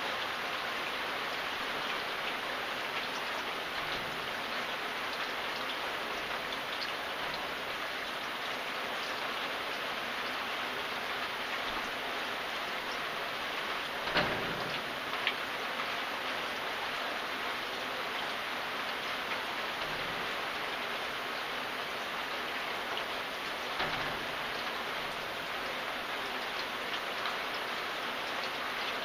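Steady rain falling, an even hiss with scattered louder drops; a few heavier drips or knocks stand out, the loudest about halfway through.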